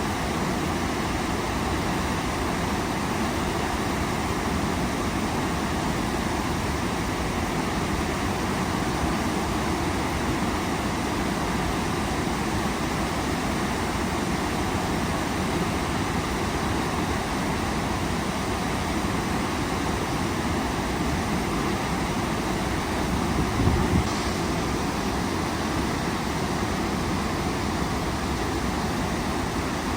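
Waterfall: running water rushing steadily, a dense even roar. A brief low thump about three-quarters of the way through.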